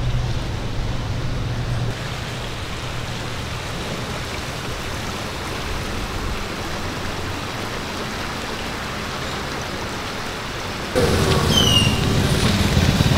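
Steady outdoor street noise, a hiss with the low hum of a vehicle engine. About eleven seconds in it turns suddenly louder, with a few short high chirps.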